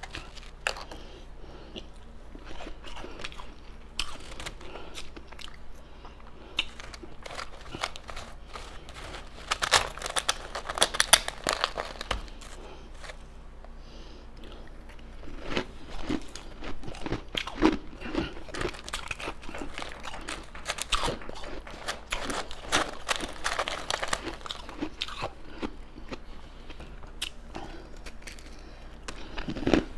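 Close-miked crunching and chewing of soft ice, with short crackling bites coming in irregular clusters.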